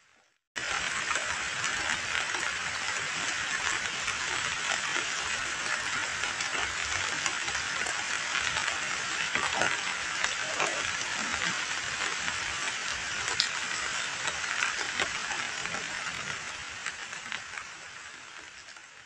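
Heavy rain falling on a pool of muddy water: a dense hiss made of countless small drop splashes. It starts abruptly about half a second in and fades out near the end.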